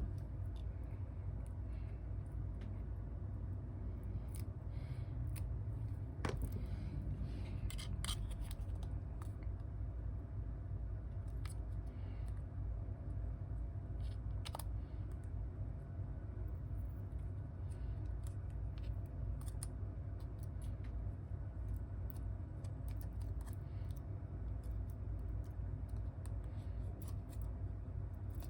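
Small clicks, taps and snips of hand tools on a smartphone's parts during a repair, scattered and irregular, with a few sharper clicks. A steady low hum runs underneath.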